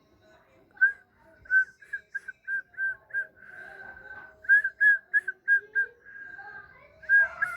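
Whistling: a run of short whistled notes at one steady pitch, about three a second, with two longer held notes in the middle.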